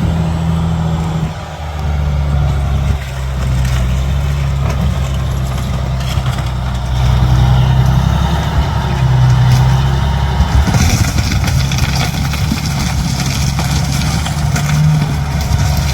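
An engine idling steadily, a low even hum that shifts slightly in pitch now and then; from about eleven seconds in a rushing hiss joins it.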